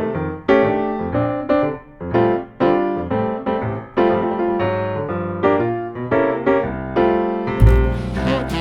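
Background music: piano playing a run of chords. A fuller band with heavy bass comes in about a second before the end.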